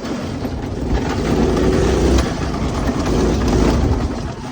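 Go-kart's 196 cc single-cylinder four-stroke engine, fitted with a 30 mm aftermarket carburetor, running at speed under way, with heavy wind buffeting on the microphone. It grows louder about a second in and eases off near the end.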